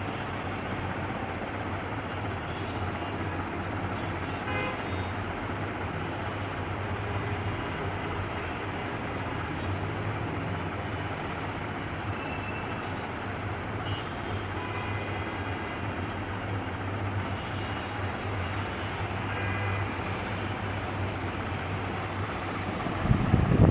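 BRB 56-inch ceiling fan running steadily, with a constant low motor hum and air rush. Near the end, wind buffets the microphone loudly.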